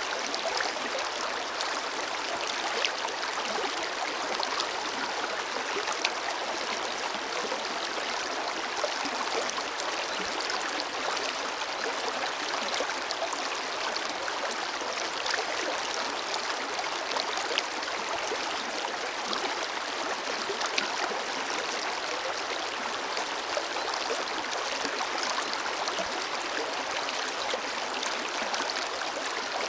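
A forest river flowing: a steady rush of running water, flecked with small splashes and gurgles.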